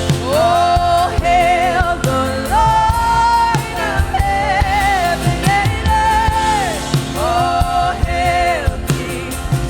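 Contemporary worship music: a singer holding long, wavering notes over a band with drums and bass.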